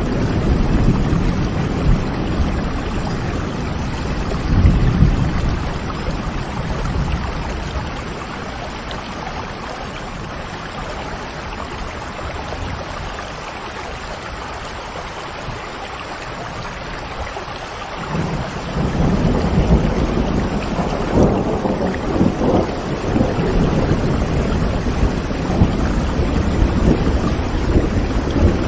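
Steady rain with rolling thunder. The low rumble fades through the middle and swells again about two-thirds of the way in.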